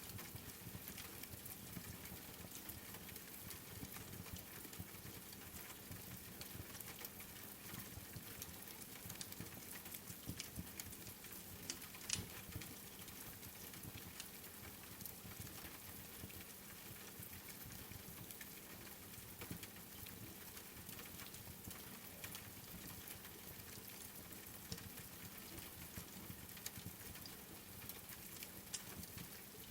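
Wood fire crackling with scattered sharp pops over a steady patter of rain; one louder pop about twelve seconds in.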